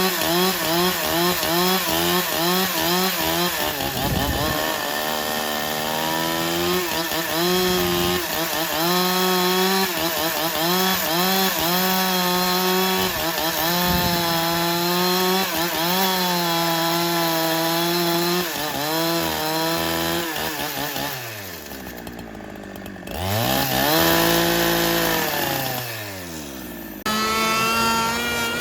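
A chainsaw running under load as it cuts through wood, its engine pitch wavering with the cut. About three-quarters of the way in it drops in speed and pitch, then it revs back up near the end.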